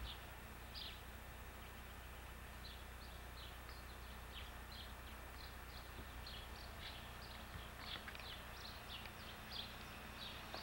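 Birds chirping: short, high, down-sliding chirps, a few each second, faint over a low steady hum.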